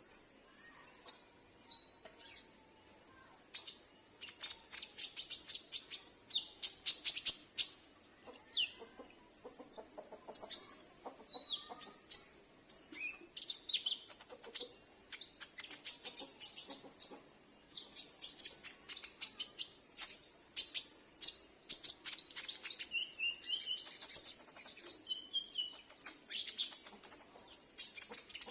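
Olive-backed sunbird calling and singing: sharp high chirps, short falling notes and quick rattling trills, repeated over and over.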